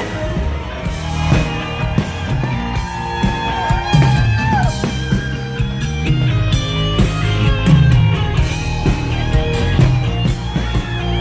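Live rock band playing an instrumental passage: a lead electric guitar line with bent notes over drums and bass.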